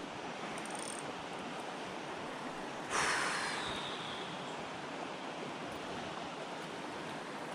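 Steady rushing of a flowing river, with a short louder rush of noise about three seconds in that fades over about a second.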